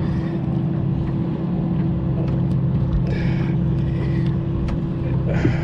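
A steady motor hum with a constant low drone, like an engine idling, running on without change; a few faint ticks sound over it.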